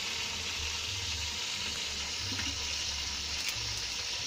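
Chicken pieces frying in hot oil in a metal pot, a steady sizzle.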